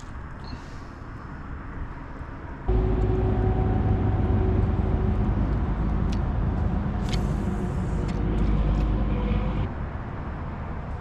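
A steady motor drone starts abruptly about three seconds in, holds an even pitch, and cuts off abruptly near the end, with a few light knocks over it.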